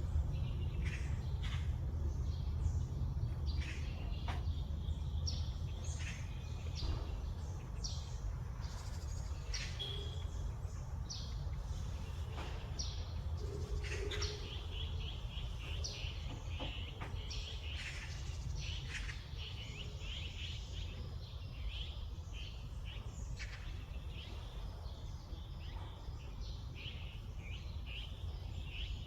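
Wild songbirds chirping and twittering, many short calls and quick trills overlapping, with a steady low rumble underneath.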